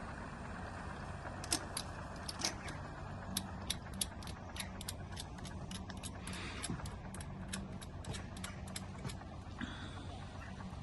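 A boat motor running steadily, with a quick run of sharp metallic clicks and clinks over it from about a second and a half in until near the end.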